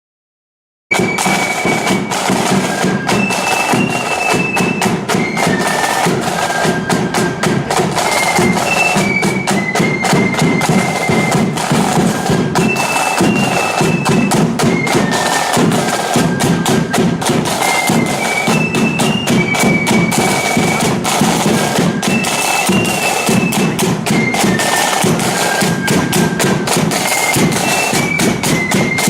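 A marching flute band in full cry, starting abruptly about a second in: massed flutes carrying a high, repeating march tune over rapid, loud drumming, in the blood-and-thunder style.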